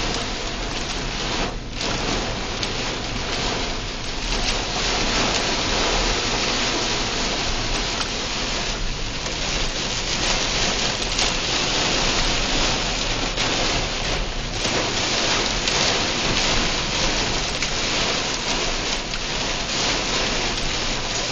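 Torrential rain pelting a car's roof and windshield, heard from inside the cabin as a dense, steady hiss.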